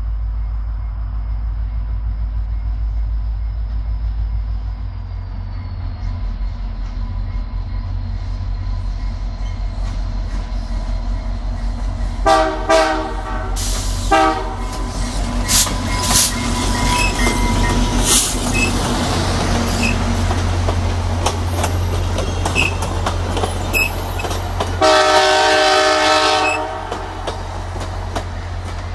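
Passenger train hauled by diesel locomotive 6406 approaching with a steady low rumble. The horn sounds two short blasts about twelve seconds in and a longer blast near the end, with wheels clattering over rail joints as the train passes.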